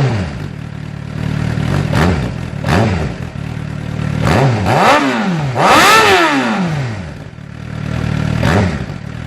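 Sport motorcycle engine revved from idle in a series of quick throttle blips, each rising and falling back to idle, the biggest and longest about six seconds in.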